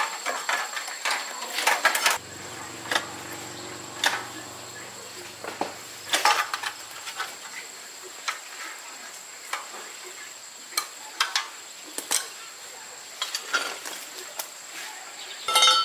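Metal tools and motorbike parts clinking and tapping in scattered sharp knocks, over a steady high-pitched tone.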